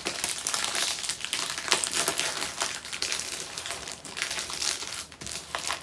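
Crinkly packaging being handled and folded, an irregular run of crackles as a diamond painting kit is wrapped back up.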